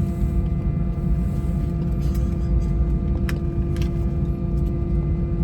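Airbus A320's IAE V2500 turbofan engines at idle, heard from inside the cabin: a steady low rumble under a steady hum, with a few faint clicks.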